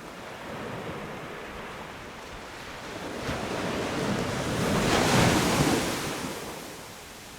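Sea waves breaking on a beach: the surf swells, one wave breaks loudest about five seconds in, then washes back and fades.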